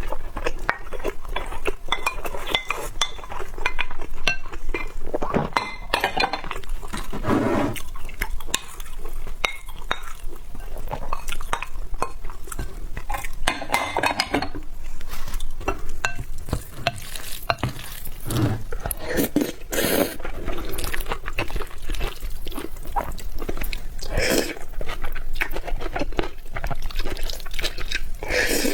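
Eating utensils clinking and stirring against a bowl of rice, chicken and noodles, in many short clicks and scrapes.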